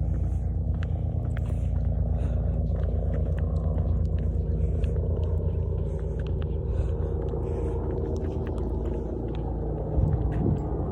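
Helicopter flying over: a steady low rotor thrum with a fast pulsing beat.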